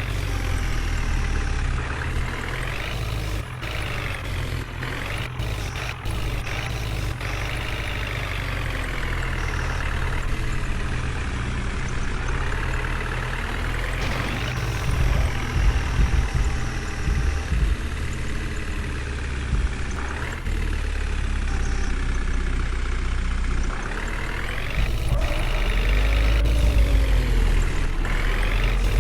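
Heavy diesel machinery engine working hard, revving up and settling back several times over a deep rumble.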